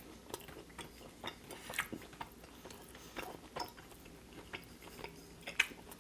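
Close-miked chewing of a mouthful of New York strip steak: irregular small wet clicks and smacks. Later on, knife and fork cut into the steak on the plate.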